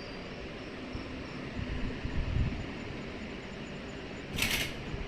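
Heavy rain falling as a steady hiss, with a low rumble swelling about two seconds in and a brief, sharper hiss near the end.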